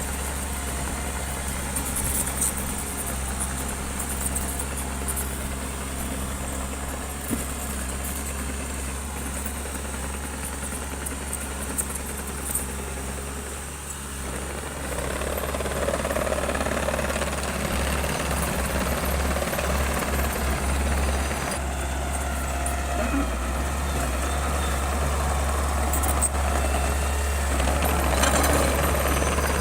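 Bulldozer's diesel engine running steadily, growing louder and fuller about halfway through.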